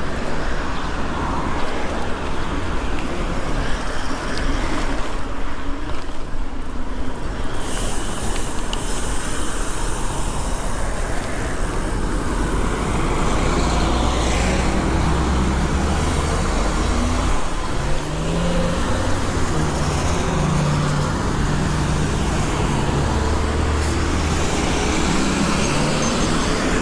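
Steady road traffic: cars and other motor vehicles passing, with a continuous low rumble.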